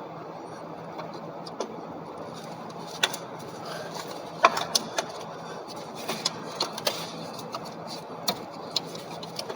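Scattered sharp metal clicks and knocks as a valve cover is worked onto the cylinder head's locating pins, starting about three seconds in and coming in quick clusters, over a steady low hum.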